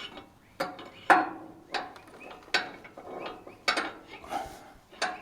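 Irregular metallic knocks and clanks, about seven in five seconds, the loudest a little over a second in, as the steel lift-arm shaft of a John Deere 1640's three-point linkage is worked out of its housing.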